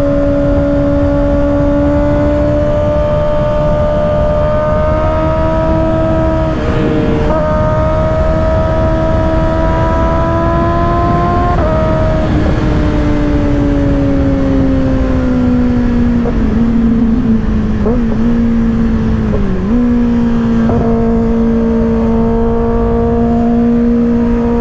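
2024 Kawasaki ZX-6R's 636 cc inline-four with an M4 aftermarket exhaust running at freeway cruising speed over heavy wind rush. Its pitch climbs slowly and breaks briefly twice, then falls away, wavers with a few short dips, and settles into a steady drone near the end.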